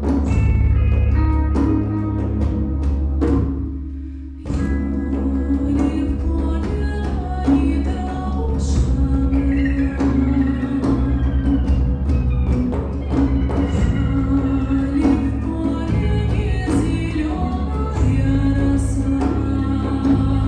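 Live ensemble playing a slow, sad song in Russian folk style over a complex eastern drum rhythm in 22/8, with a steady low drone under the melody and regular drum strokes. The music thins briefly about four seconds in.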